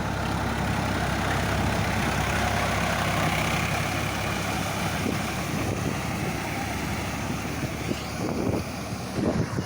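Sonalika diesel tractor engine running steadily while working a muddy field. A few irregular low thumps come in near the end.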